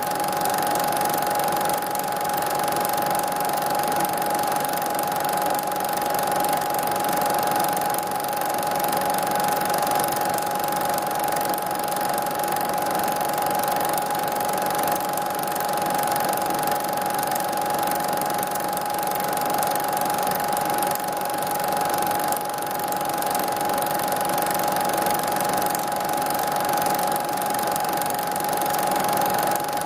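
A steady mechanical whirr and hiss with a constant high hum, unchanging throughout.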